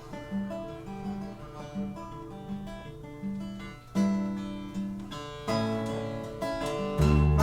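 Acoustic guitar picked in a repeating pattern of notes as a song's opening. Deeper bass notes join about five and a half seconds in and grow louder near the end.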